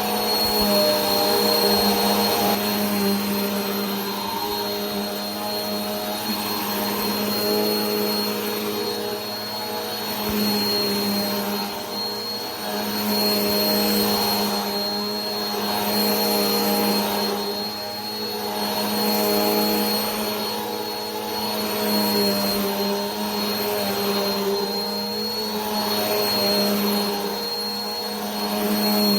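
Vacuum cleaner motor running continuously, a steady hum with a high whine on top, its loudness slowly swelling and fading every few seconds.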